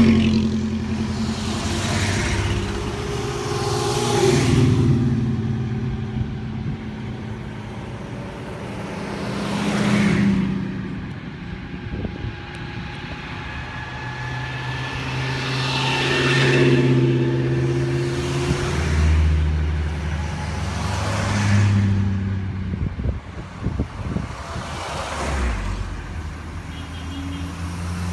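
Classic cars driving past one after another in slow traffic, engines running steadily, with several louder pass-bys swelling and fading every few seconds.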